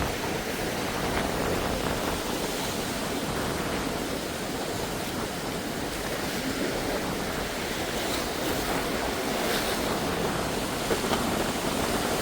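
Steady wash of sea waves with some wind.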